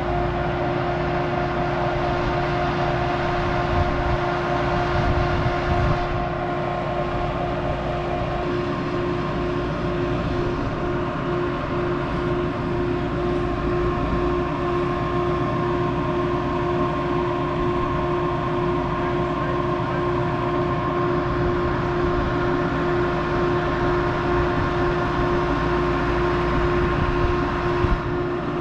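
Tractor engine running steadily, a constant drone with a steady whine over it.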